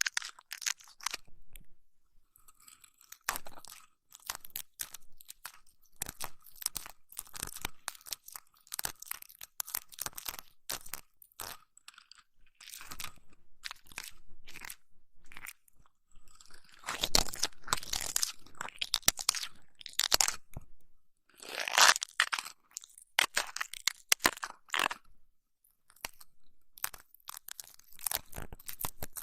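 Close-miked crunchy, crackling rubbing and scratching, ASMR ear massage and ear cleaning on a microphone, coming in irregular clusters of quick clicks with short pauses between.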